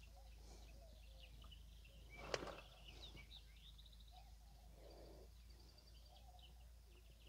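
Near silence with faint, scattered bird chirps and twitters, and one soft click about two seconds in.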